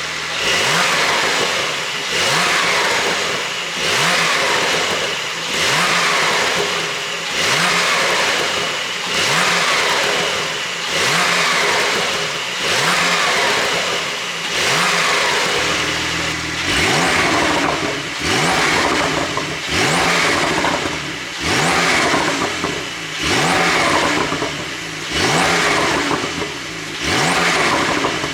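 Porsche 911 (992) Carrera's twin-turbo flat-six revved over and over, about one blip every two seconds, each rise in pitch dropping back with popping and crackling from the exhaust on the overrun, the effect of an ECU tune set up for exhaust pops.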